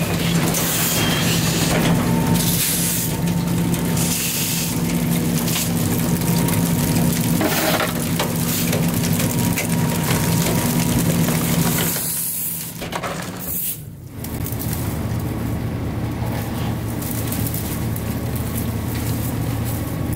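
CNG-powered Autocar ACX rear-loader garbage truck running with a steady engine hum, mixed with irregular crunching and hissing. About twelve seconds in the sound drops briefly, then a lower, steadier engine hum carries on.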